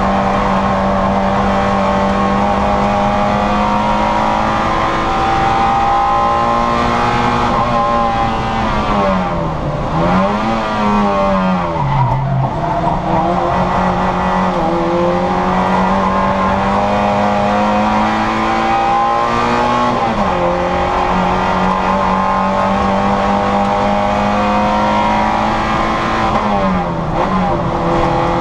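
Citroën Saxo VTR's four-cylinder engine running at high revs, held steady for long stretches. Its pitch drops and climbs again about ten seconds in as the car brakes and shifts down for a corner, with a brief dip around twenty seconds and another near the end.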